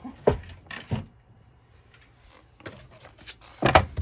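Paper and card being handled on a tabletop: rustling, with several short knocks as the sheets and cover are moved and set down. The loudest knocks come near the end.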